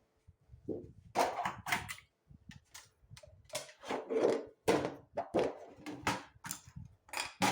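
Hard objects being handled: a string of irregular knocks, clicks and clatter.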